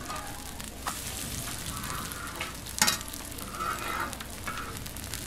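Food frying and sizzling in oil on a griddle, a steady crackle with scattered ticks, and one sharp clack about halfway through.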